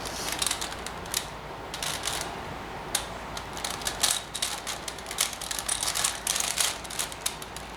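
A 4x4 Rubik's Revenge cube's plastic layers clicking and clacking as they are turned quickly, in an irregular stream of several clicks a second, while its edges are being paired.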